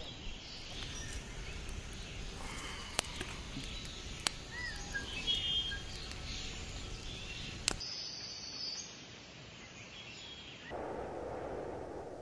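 Woodland ambience with small birds chirping and a few sharp clicks; near the end, a steady rushing noise sets in.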